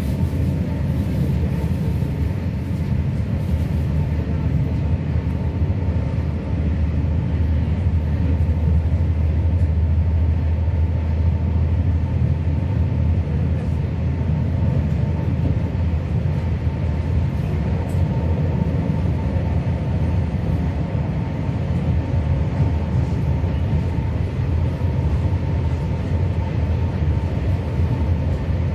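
Steady low rumble of a moving passenger train heard from inside the carriage, with a faint steady whine above it.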